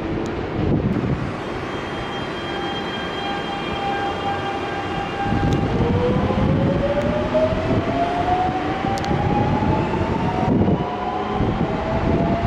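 Electric commuter train pulling out of the station, its inverter and traction-motor whine rising in pitch as it accelerates, over wheel and rail rumble. About ten seconds in, the whine drops back and climbs again.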